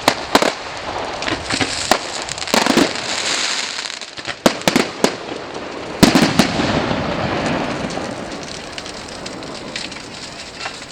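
Fireworks going off: a string of sharp bangs with bursts of crackling, the loudest bang about six seconds in trailing off into a fading crackle.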